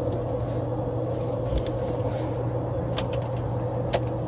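Steady hum of running HVAC machinery, with a few light metallic clicks from wrench work on the fan assembly.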